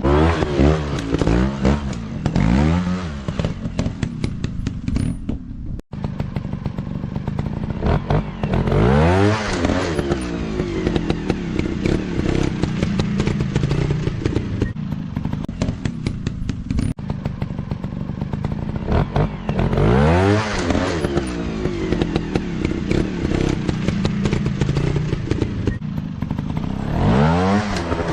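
Off-road dirt bike engines revving hard several times, each burst climbing and then falling in pitch, over a steady lower engine note.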